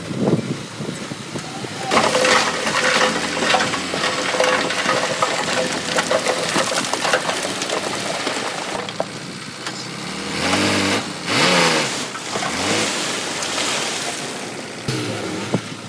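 Heavy diesel construction machinery working: a clattering, grinding noise sets in about two seconds in, and an engine revs up and down a couple of times later on.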